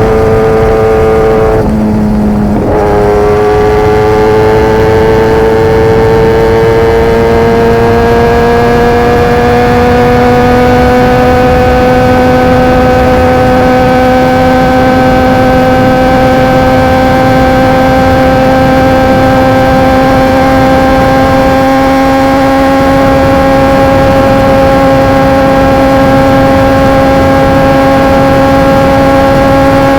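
Kawasaki ZX-10R's inline-four engine through an SC-Project CRT carbon exhaust, riding under way. About two seconds in the note breaks briefly and drops in pitch, an upshift, then climbs slowly and steadily as the bike pulls in the higher gear.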